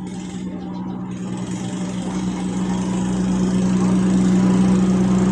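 Small motorcycle engine running at a steady speed, growing steadily louder.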